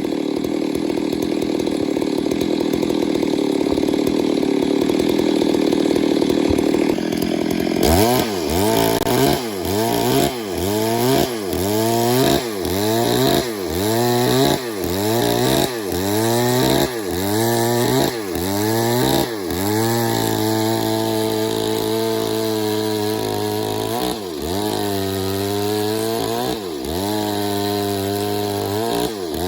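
Stihl MS 382 two-stroke chainsaw running under load. For the first several seconds it gives a steady noisy cut. Then its engine pitch drops and recovers about once a second, and later every couple of seconds, as the chain bites into the wood and eases off.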